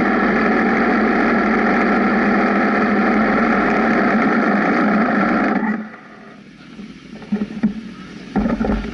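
Benelli TNT 1130 Café Racer's inline-three engine running steadily, cutting off abruptly a little past halfway. The rest is much quieter, with a few scattered knocks and clicks.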